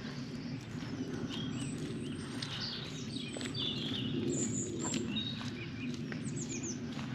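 European robin singing: a run of varied high, thin chirps and short warbled phrases, with a quick falling series of notes about six seconds in, over a steady low outdoor rumble.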